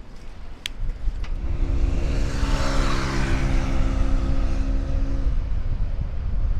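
A motor vehicle passing close by: its engine hum and a rush of tyre and air noise swell, peak about three seconds in, and fade again, over a steady low rumble.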